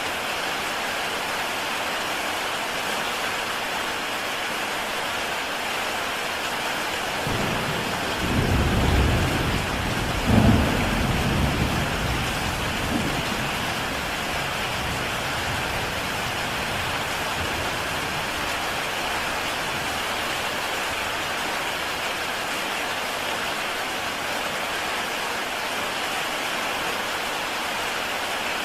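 Heavy rain falling steadily on a tile roof. A low rumble of thunder comes in about seven seconds in, swells to its loudest around ten seconds, and dies away by about fourteen seconds.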